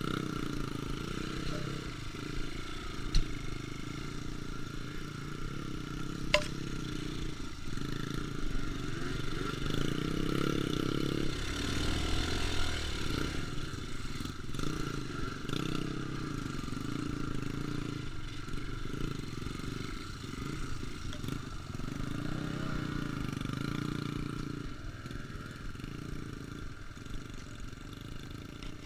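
Trail motorcycle engine running while riding off-road, its level rising and falling with the throttle. Two sharp knocks come in the first several seconds.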